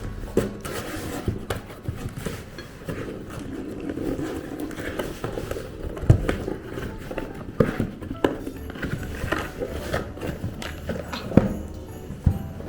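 Toy packaging being handled and rummaged through: irregular knocks and clicks of cardboard and plastic parts, with a few sharper taps, the loudest about six seconds in and near the end.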